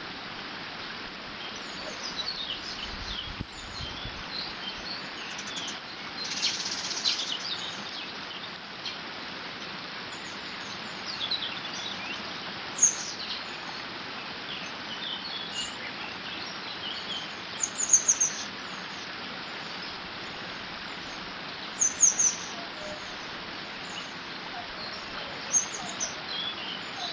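Steady rush of water flowing through a beaver dam, with songbirds calling and singing over it. A few sharp, loud, falling high bird calls stand out now and then.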